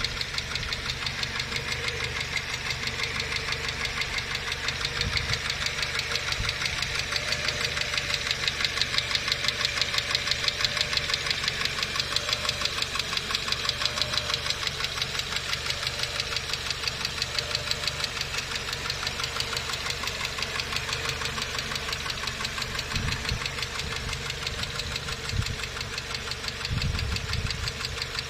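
Car engine idling with a rapid, steady ticking from the valvetrain: the knock of hydraulic valve lifters.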